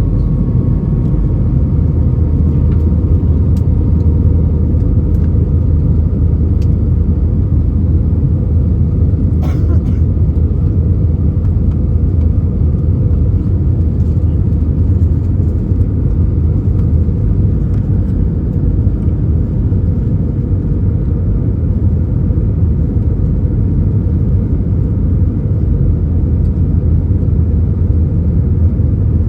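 Steady low rumble of an Airbus A319's jet engines and airflow, heard from inside the passenger cabin in flight. A faint high hum fades in the first few seconds, and a single brief click comes about nine seconds in.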